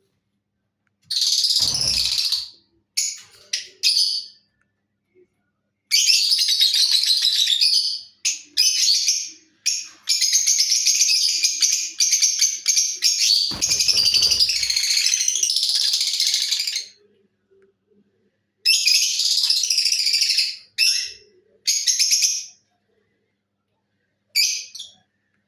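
Lutino lovebird chattering in shrill, rapid bouts of chirps, the longest running about seven seconds. Two brief low thumps sound under the calls, about two and fourteen seconds in.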